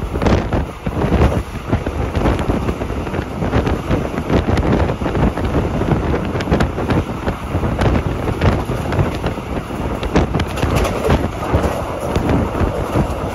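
A train running along the track, heard from an open window: steady wind buffeting on the microphone over the rumble of the wheels, with irregular knocks throughout.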